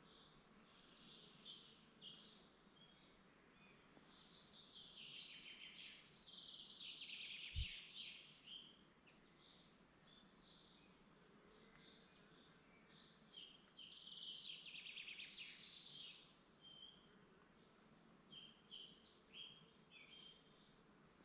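Woodland birds singing: many short high chirps and phrases, with two longer stretches of dense song about six and fourteen seconds in. A single soft low thump sounds about seven and a half seconds in.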